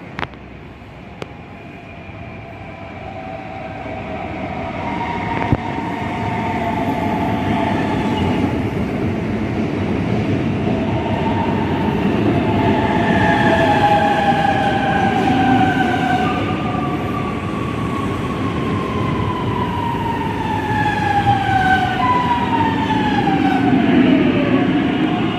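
Electric commuter train running, growing louder over the first several seconds, with a rumble and several whining tones. Near the end the tones glide down in pitch.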